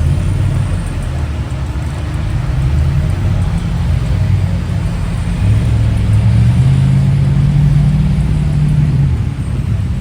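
A car engine running under load, its pitch rising about five seconds in, holding, then dropping back near the end, like a vehicle accelerating and easing off.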